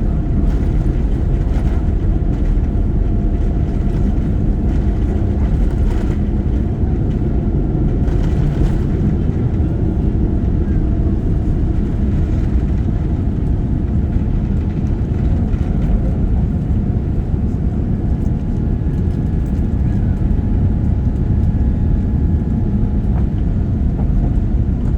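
Jet airliner's engines and airframe during takeoff, heard from inside the cabin: a loud, steady, low rumble.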